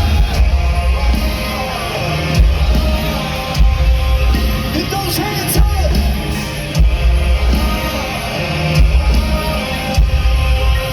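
Live rock band playing loudly, with heavy, pulsing bass and drums.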